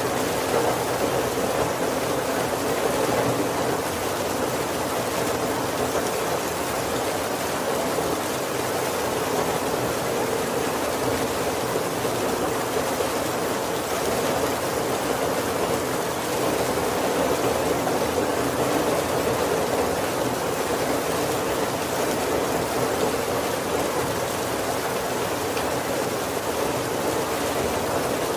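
Steady heavy rain, with no breaks or changes.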